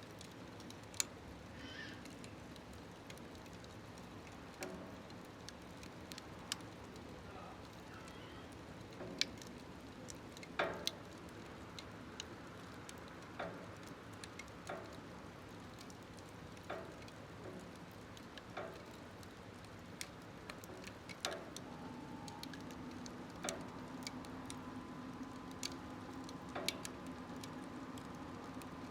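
Wood fire crackling in a small smokeless wood stove: sharp, irregular pops and clicks every second or two over a low steady background. A faint steady tone comes in about two-thirds of the way through.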